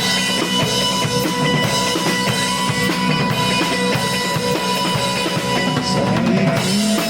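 A live rock band playing a song's instrumental intro on drum kit and guitars, starting abruptly together.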